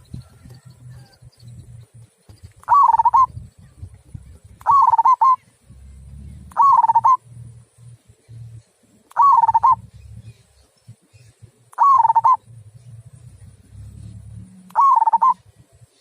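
Zebra dove (perkutut) of the local Indonesian type giving its 'kung' coo: six short cooing calls, each about half a second long and dipping then rising in pitch, spaced two to three seconds apart.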